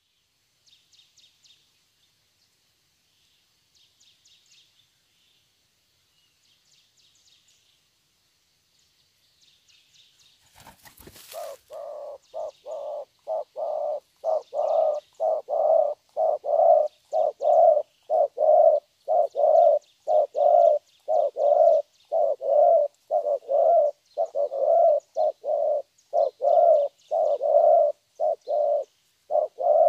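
A young wild-caught spotted dove calls in fast repeated coos, about two a second, starting about a third of the way in just after a sharp knock. Faint high chirping of small birds runs behind it.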